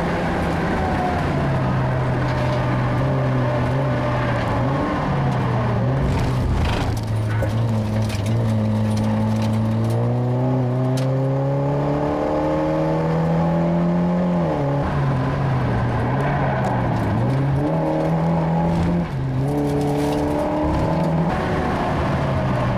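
Car engine heard from inside the cabin while driving hard on a race track, its pitch climbing under acceleration and dropping sharply several times as the revs fall.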